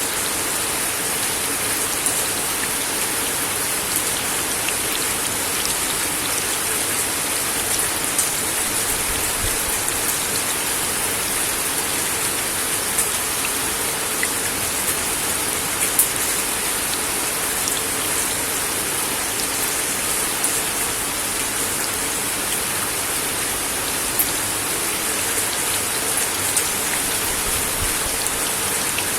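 Steady rain falling on a wooden deck, a continuous hiss with scattered individual drop taps standing out here and there.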